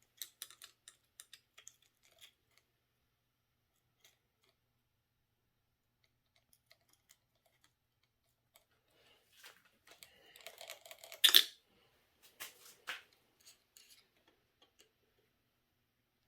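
Scattered light clicks and rattles of small hand tools and metal parts being handled while RC car suspension links are adjusted and tightened. A denser run of clicks and rustling comes later, with one sharp, loud click about two-thirds through.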